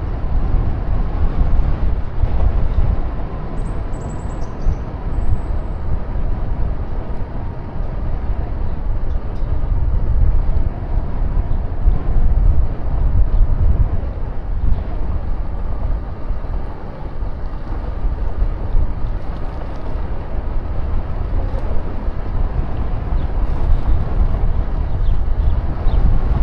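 Wind rushing over the microphone of a moving bicycle, a steady low rumble with no break.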